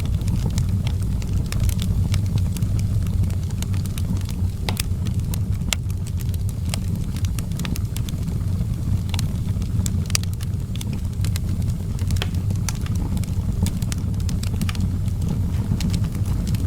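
Outdoor wood fire crackling, with irregular sharp pops and snaps over a steady low rumble of flame.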